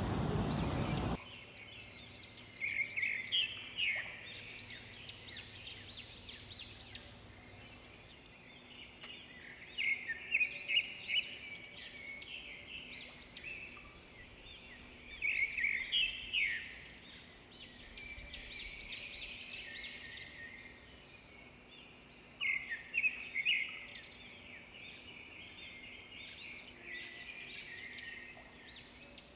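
Rainforest birds calling in bursts of quick, chattering notes over a quiet background, the bursts returning every several seconds. A loud rushing noise cuts off sharply about a second in.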